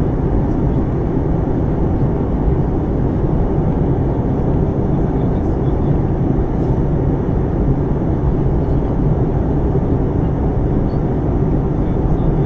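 Jet airliner cabin noise: a steady, even roar of the engines and airflow heard from a passenger seat inside an Airbus A320-family jet.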